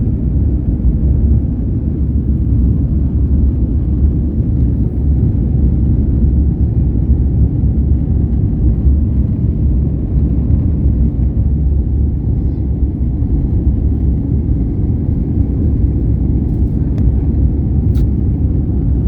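Jet airliner taking off: a loud, steady low rumble of engines and runway.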